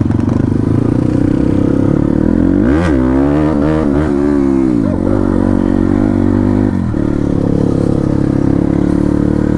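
Dirt bike engine running under load, its revs rising and falling several times around the middle as the throttle is worked, with a brief drop in engine sound near the end.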